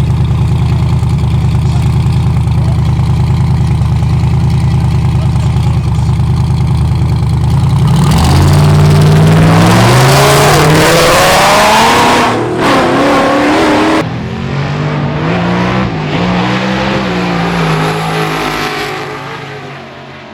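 Car engines in a roll race, running steadily at a low rolling speed, then opening up about eight seconds in. The engines accelerate hard, rising in pitch through gear changes. After an abrupt change partway through comes another stretch of engine acceleration that fades away near the end.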